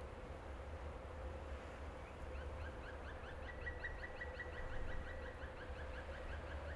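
A bird calling in a fast run of short rising notes, about six a second, starting about two seconds in, over a faint low rumble and a steady drone.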